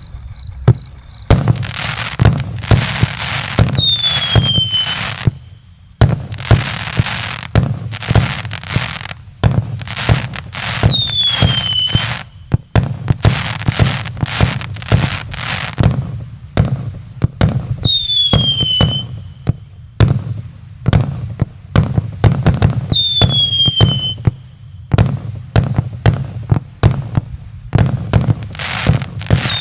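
JF MC25 100-shot, 1-inch calibre firework cake firing: rapid sharp shots and bangs over stretches of hiss. A short falling whistle sounds about every six seconds.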